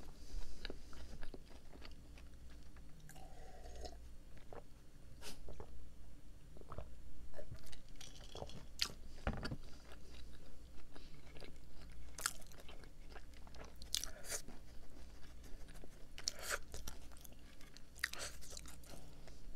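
Close-up chewing of a doughnut, with wet mouth sounds and scattered sharp crunches. The crunches come more often in the second half.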